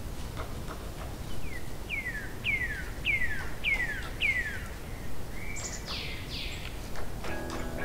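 A bird singing: a run of six clear notes, each sliding downward, about two a second, then two broader down-slurred notes, over steady low background noise. Guitar music comes in near the end.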